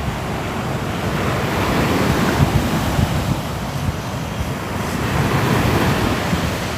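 Sea waves breaking and washing on a shore, the surf swelling and easing every few seconds, with some wind on the microphone.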